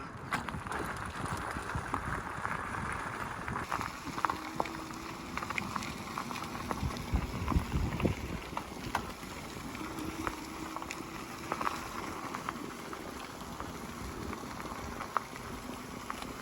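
Electric bike riding over a wet road surface: steady tyre hiss with many small crackles and clicks, and a low rumble.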